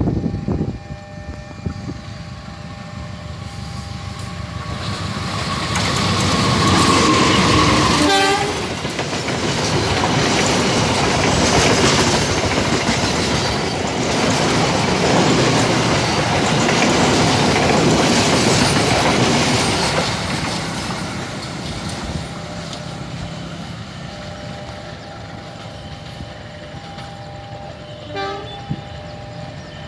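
A locomotive-hauled passenger train passes close by. Its running noise builds as it approaches, stays loud for about a dozen seconds while the coaches go past, then fades as it recedes. The locomotive's horn sounds briefly about seven to eight seconds in, as it draws near.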